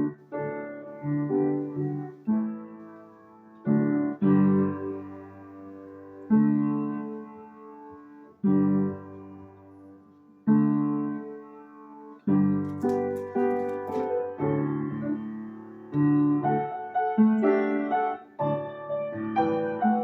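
Piano accompaniment with no voice: chords struck every second or two and left to ring and fade, with quicker notes in the second half.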